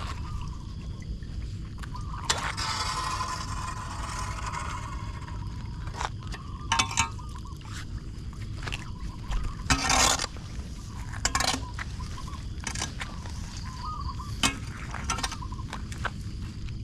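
Floodwater splashing and draining at a clogged street storm drain, with irregular scraping as debris is cleared from the grate, over a steady low rumble of water.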